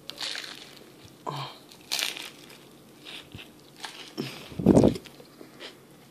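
Close-up eating sounds: biting into and chewing a loaded fried egg sandwich, a series of short wet mouth and crunching noises with one louder burst about three-quarters of the way through.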